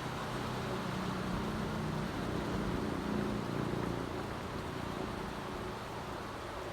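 Steady hiss of heavy rain, with a vehicle engine humming underneath that grows louder to a peak about three seconds in and then fades.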